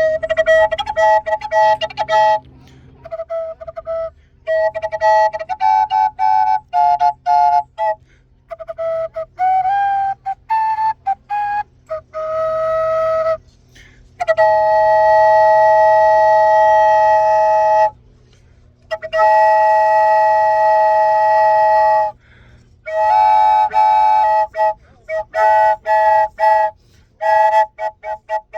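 Duct flute played solo: a slow melody of short separate notes and a few long held notes, with a second tone at times sounding together with the main one.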